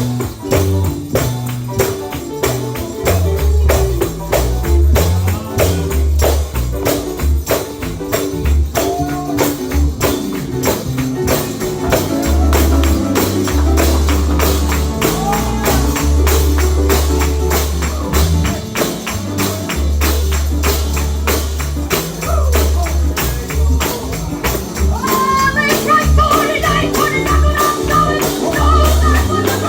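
Gospel music played with a tambourine beating steadily over a bass line. A voice comes in singing about 25 seconds in.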